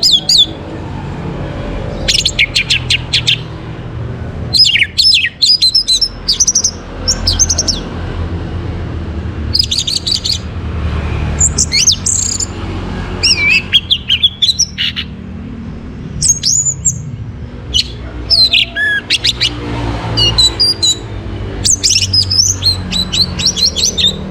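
Orange-headed thrush singing: bursts of quick, varied whistled phrases every second or two, over a low steady drone.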